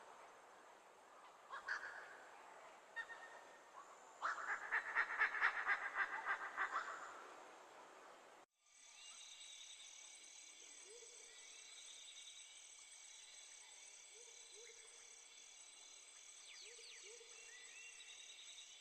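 Rainforest wildlife sounds: a rapid, harsh pulsed animal call lasts a few seconds. After an abrupt cut comes a steady insect chorus with a high pulsing trill and a few short, low rising chirps.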